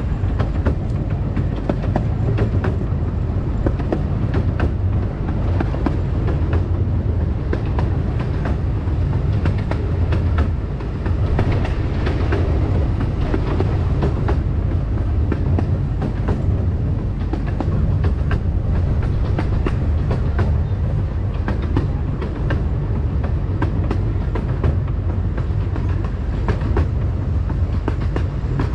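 Small-gauge miniature railroad train running along the track: a steady rumble with frequent irregular clicking and clattering from the wheels and cars.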